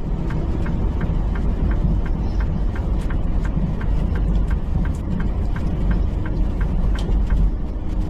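Semi truck's diesel engine and road noise heard from inside the cab while driving, a steady low drone, with a run of faint, evenly spaced ticks.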